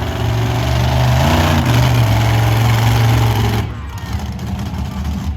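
Monster truck engine running loud under throttle, its pitch climbing briefly about a second and a half in, then backing off near the end.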